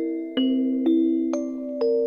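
Music box playing a slow hymn tune: single plucked steel-comb notes about two a second, each ringing on under the next.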